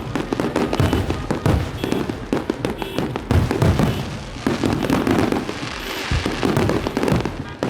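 Fireworks going off continuously: a dense run of irregular booms and crackling firecracker bangs overlapping one another.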